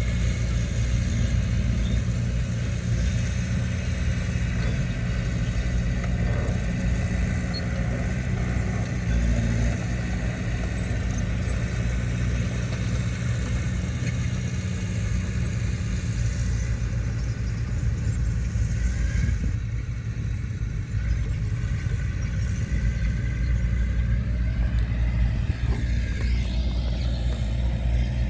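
Diesel engine of heavy earthmoving machinery running steadily, with a deep, continuous drone.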